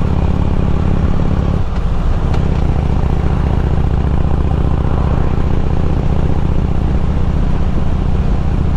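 Harley-Davidson Road King's V-twin engine running under way, a steady deep motorcycle engine sound with a brief break in it about two seconds in.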